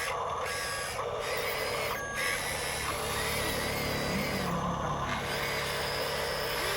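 Small electric motor and gears of an RC dump truck whining steadily, the pitch stepping up and down a few times as it runs.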